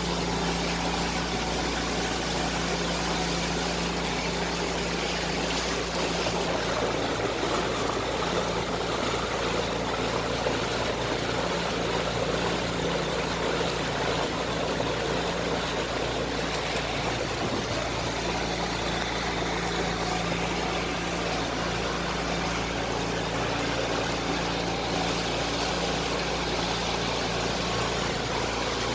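Motorboat engine running steadily with an even hum.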